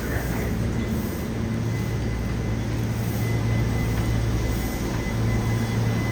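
Yokohama Municipal Subway Blue Line 3000N-series train running at steady speed, heard from inside the car: a steady low rumble of wheels and motors with a faint, even high whine.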